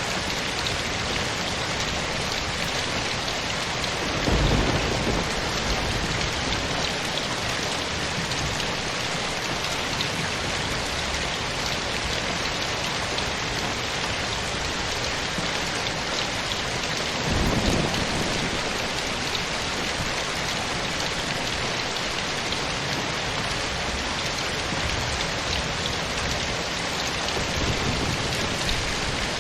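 Steady rain falling. Two brief low rumbles of thunder come through it, about four seconds in and again about seventeen seconds in.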